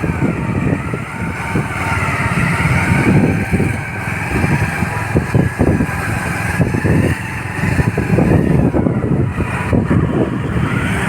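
Motorcycle running on the move, with wind buffeting the microphone in uneven gusts and a faint whine that wavers up and down in pitch.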